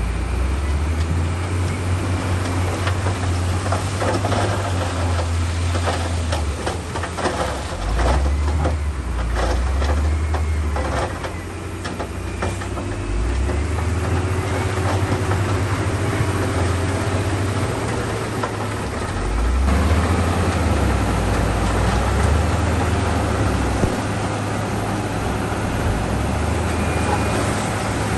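Shantui crawler bulldozer's diesel engine working under changing load, its low rumble rising and falling, with a run of metallic clanking from tracks and pushed stone a few seconds in.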